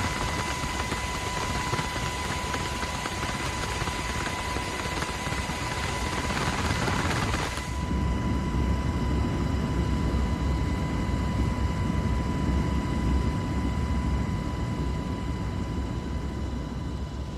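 Steady aircraft engine noise with a constant high whine; about midway through it turns suddenly to a deeper rumble.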